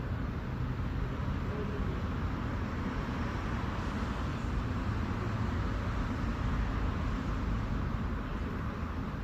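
Steady wash of urban road traffic, swelling slightly in the middle.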